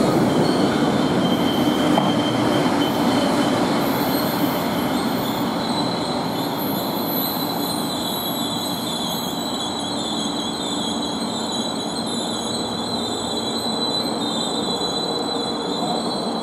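NJ Transit commuter train rolling through the station with its wheels squealing in a high, wavering screech over a steady rumble that slowly fades.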